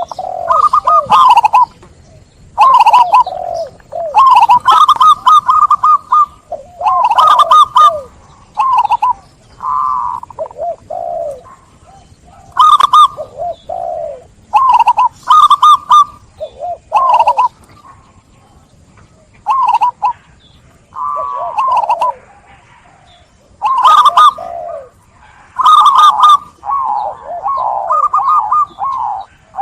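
Zebra doves (perkutut) cooing, a loud run of short, trilling coo phrases that repeat every second or two with brief pauses between them.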